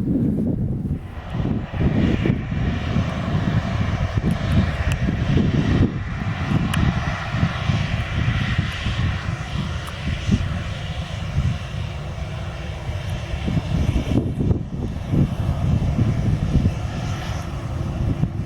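Airliner engines running as an aircraft passes: a rushing engine noise that builds from about a second in, is loudest around the middle, and eases after about fourteen seconds. Wind buffets the microphone throughout.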